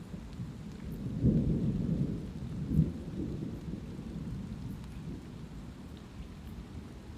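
Thunder rumbling low, swelling about a second in and peaking twice before fading away, over light rain falling steadily.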